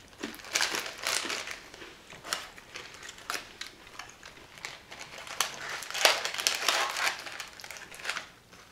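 Plastic snack packaging crinkling and rustling as it is handled, in a run of crackly bursts that are loudest about six to seven seconds in.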